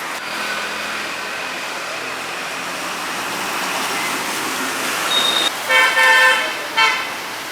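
Steady road traffic noise, then a car horn honks twice near the end: a blast of about half a second followed by a short toot.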